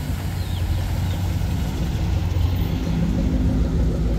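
Shelby GT500 KR's V8 engine running at low speed as the car pulls in, a steady rumble that swells slightly about halfway through.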